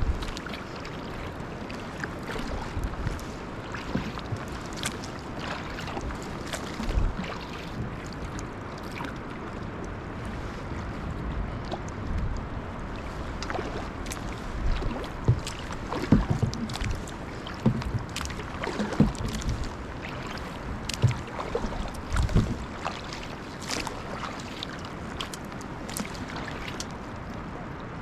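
Kayak being paddled: steady water noise with irregular paddle splashes and knocks, louder ones coming more often in the second half.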